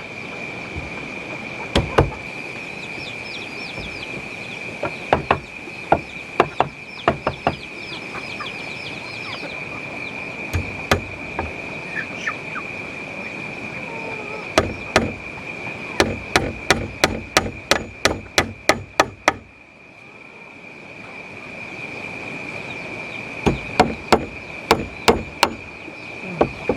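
Repeated blows of a tool on wood: scattered knocks, then a quick even run of about three strokes a second, then more knocks near the end. A steady high insect drone runs underneath, with short bird chirps now and then.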